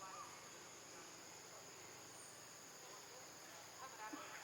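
Faint, steady insect chorus, a continuous high-pitched drone.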